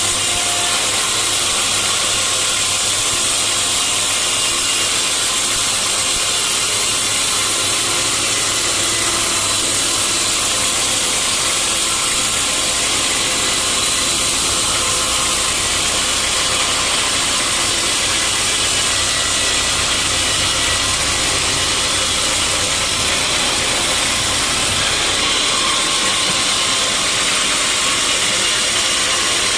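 Sawmill saw running steadily as it cuts through a large mahogany log: a continuous loud mechanical noise with a strong hiss and a low engine hum beneath.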